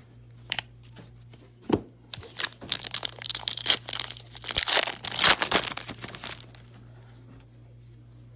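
Wrapper of a Topps Tribute baseball card pack being torn open and crinkled: two sharp clicks, then a few seconds of tearing and crinkling that stops about six seconds in. A low steady hum runs underneath.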